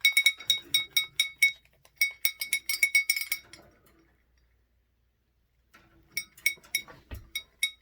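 Small metal bell on a bird toy shaken and jingling quickly, about seven rings a second, in three runs with a pause of nearly two seconds in the middle.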